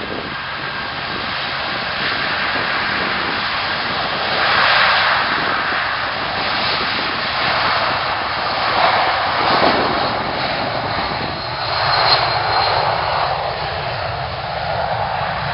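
Passenger aircraft engines running loud and continuous, swelling and easing several times as the plane moves past.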